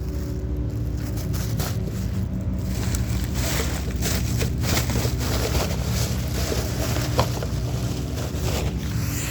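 Steady low motor hum with a dense scatter of short clicks and rattles, heaviest through the middle.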